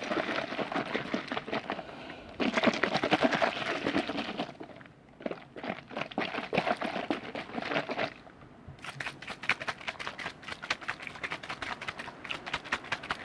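Close-miked liquid handled for ASMR: dense wet crackling and clicking, with two brief lulls, then a finer, rapid crackle from about nine seconds in.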